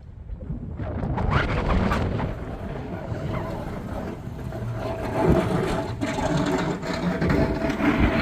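An engine running, rough and fairly loud, picking up about a second in, with a thin steady whine joining about four seconds in.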